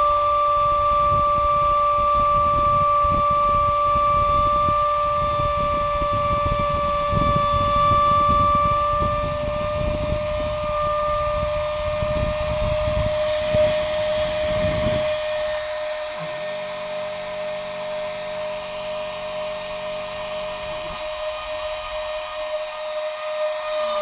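Stepper motors of a home-built Arduino CNC machine, driven by A4988 stepper drivers, with a steady high whine. The machine rattles and buzzes as it moves for about the first fifteen seconds, then gives a smoother steady hum of several tones for about five seconds.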